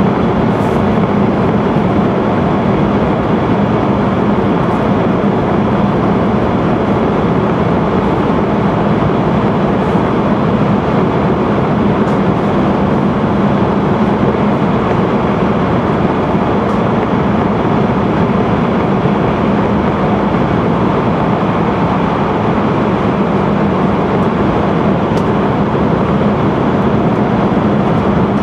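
Steady, unchanging running noise inside the passenger cabin of an E5 series Tōhoku Shinkansen train travelling at speed through a tunnel, with a constant low hum under the rush of noise.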